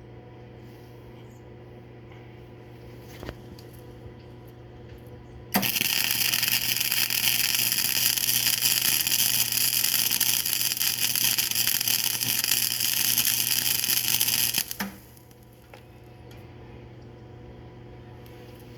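Flux-core MIG welder arc crackling and hissing in one continuous run of about nine seconds, starting suddenly about five seconds in and cutting off near the end, as a bead is laid over a wide gap in thin painted pipe. A steady electrical hum runs under it before and after.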